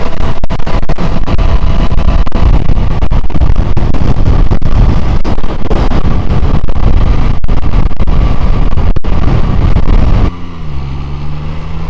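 Heavy wind rush over the microphone on a motorcycle ride, with the MV Agusta Brutale 675's three-cylinder engine under it. Near the end the wind noise drops away suddenly and the engine note is heard falling as the bike slows.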